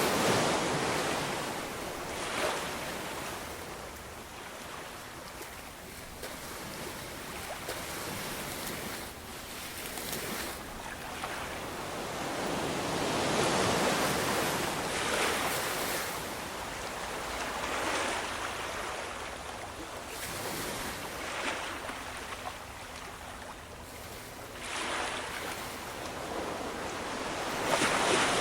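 Ocean waves breaking and washing in, swelling and receding in slow surges every few seconds, with wind noise.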